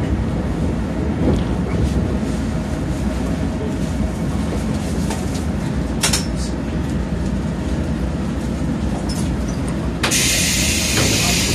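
Inside a JR 415 series electric train car: the low rumble of the train running as it slows into the station, with a few clacks. About ten seconds in, a loud hiss of compressed air starts as it comes to a stop.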